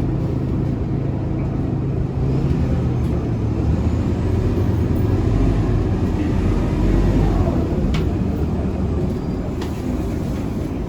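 Scania K230UB city bus's five-cylinder diesel engine droning as the bus drives, heard from inside the passenger cabin. It grows louder about two seconds in, and a couple of sharp clicks or rattles come near the end.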